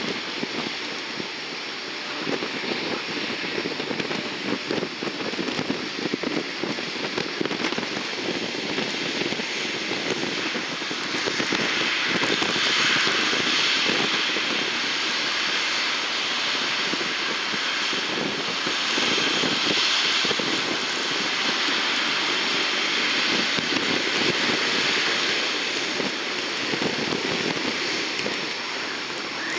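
Airplane engines running with a steady noisy rush and crackle, growing louder about eleven seconds in as the aircraft comes close.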